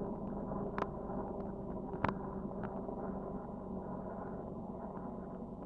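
Helicopter flying by, a steady drone heard from a distance, with a couple of faint clicks in the first two seconds.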